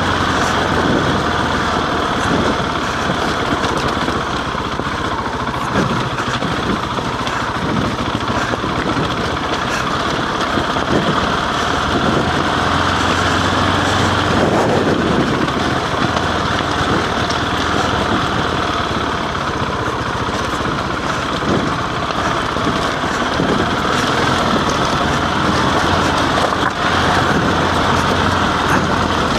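Husqvarna 701 enduro's single-cylinder four-stroke engine running steadily as the bike rides up a rough, stony track, with a constant haze of riding noise over it.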